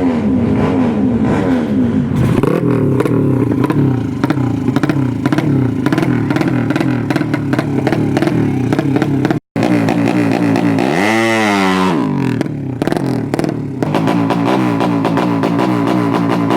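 Yamaha Jupiter Z drag bike's engine, bored out to 200cc, being revved in quick, uneven blips. About halfway through the sound cuts out for an instant; then the engine revs up once and falls back, and the blipping goes on.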